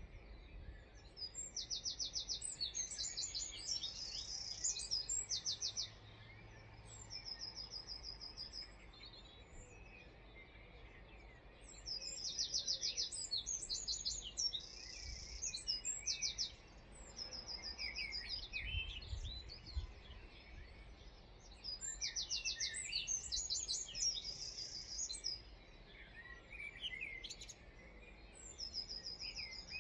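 A songbird repeating the same high song about every ten seconds: a fast run of rapid, evenly spaced notes, then a jumble of quicker notes and a buzzy held note. Fainter bird calls come in between, over a steady low outdoor background.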